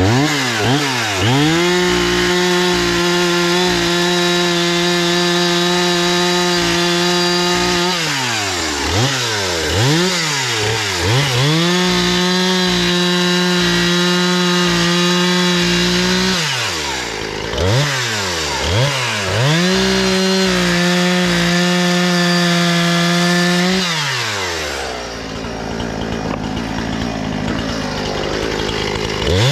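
Husqvarna 460 Rancher 59 cc two-stroke chainsaw running at full throttle through three long cuts, with quick throttle blips between them, then dropping to idle near the end and revving up again. It runs smoothly and holds its speed, its faulty magneto now repaired.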